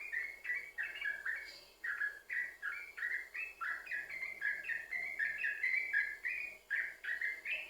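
Yellow-vented bulbul (trucukan) singing a continuous, rapid run of short bubbly notes, several a second, with no pauses.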